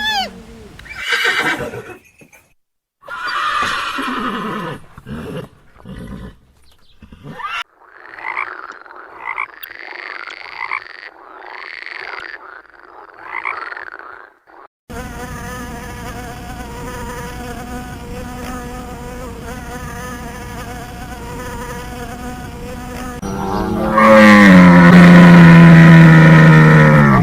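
A sequence of different animal sounds. Short calls come first, then a run of repeated rising-and-falling calls, then a steady insect-like buzz for about eight seconds, and near the end a loud, low call that falls in pitch.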